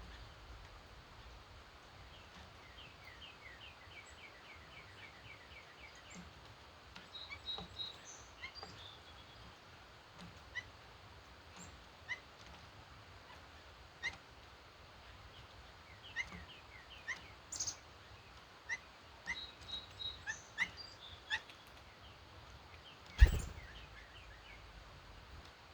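Wild songbirds calling: a quick run of evenly repeated high notes about three seconds in, then many short separate chirps. A single sharp knock near the end is the loudest sound.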